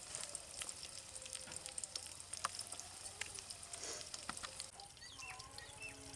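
Onions, tomatoes and green chillies sizzling in hot oil in a pot, a steady crackle of small spitting pops. The crackling thins out about two thirds of the way in.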